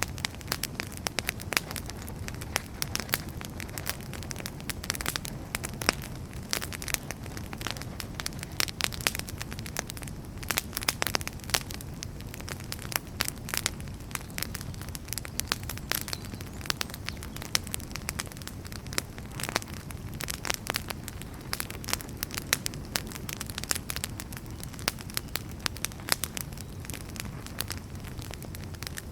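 Wood fire burning in a fireplace: dense, irregular crackles and pops of burning firewood over a steady low rumble of the flames.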